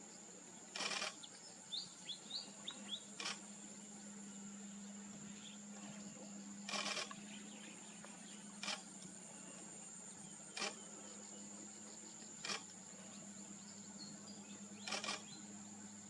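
Outdoor ambience with a steady, high-pitched insect drone throughout. A short run of quick bird chirps comes about two seconds in, and seven sharp clicks fall roughly two seconds apart; these clicks are the loudest sounds.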